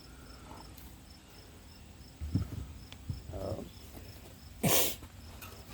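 Crickets chirping steadily, about two high chirps a second. A dull thump comes about two seconds in, and a brief loud rustle near the end is the loudest sound.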